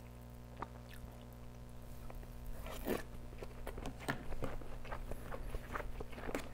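A mouthful of kimchi fried rice being chewed: irregular soft crunches and wet mouth clicks, a little sharper around the middle.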